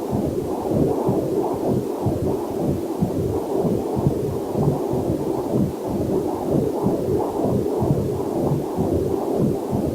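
Heartbeat picked up by a fetal Doppler heart monitor: a fast, even pulse repeating a few times a second.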